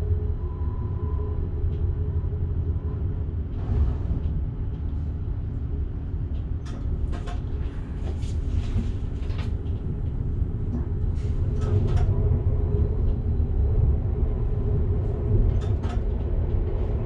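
Train running on the track, heard from the driver's cab: a steady low rumble, with a scattering of sharp clicks and knocks about six seconds in and a few more near the end.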